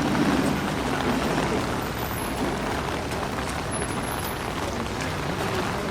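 City street traffic in the rain: a steady hiss of rain and wet tyres, with passing cars, trucks or buses.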